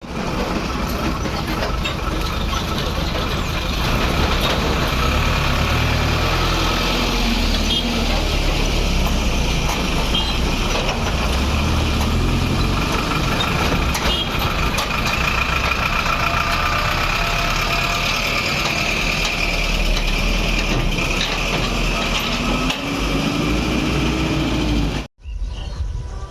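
Road vehicles and engines running at a railway level crossing: a loud, steady rumble of traffic with scattered clicks, which cuts off suddenly about a second before the end, where music begins.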